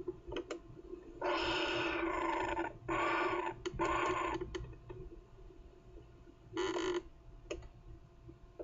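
Kookaburra calling at the nest: three long harsh calls in close succession, then a shorter one near the end, with a few faint clicks.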